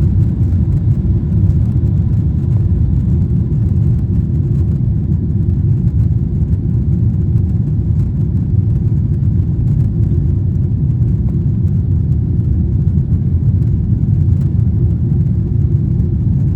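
Steady low rumble of a Boeing 777-300ER heard from inside the passenger cabin: the noise of its GE90 engines and the airflow around the fuselage, even and unchanging throughout.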